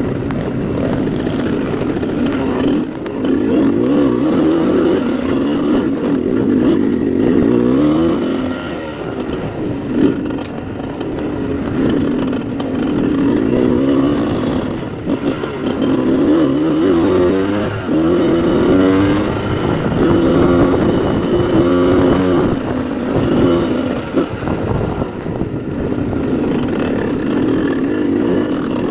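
Dirt bike engine running under load, its pitch rising and falling repeatedly as the throttle is opened and eased off.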